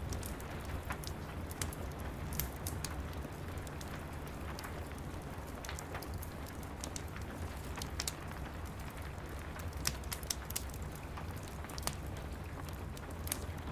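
Steady rain with a wood fire crackling over it: irregular sharp pops and snaps scattered over a low, even rush.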